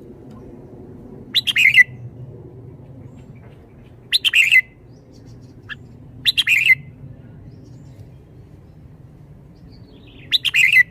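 Red-whiskered bulbul singing: four short, bright song phrases of about half a second each, spaced a few seconds apart.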